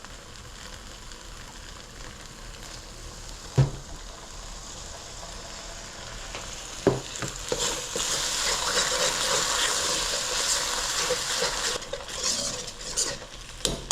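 Gochujang sauce sizzling in a pan of hot oil while it is stirred, with two sharp knocks, about three and a half and seven seconds in. The sizzle grows louder about eight seconds in.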